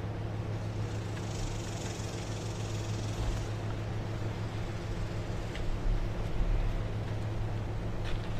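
A steady, low engine-like hum with uneven low rumble underneath and a brief hiss about a second in.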